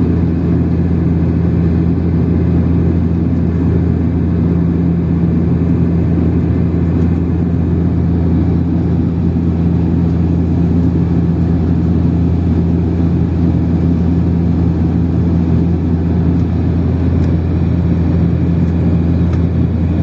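Steady drone of an airliner in flight heard inside the passenger cabin: engine and airflow noise with a constant low hum.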